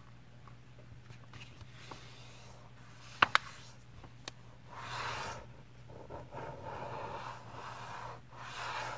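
A sheet of printer paper being folded in half: a couple of sharp taps a little over three seconds in, then several seconds of paper rubbing and scraping as the fold is pressed and the crease smoothed down.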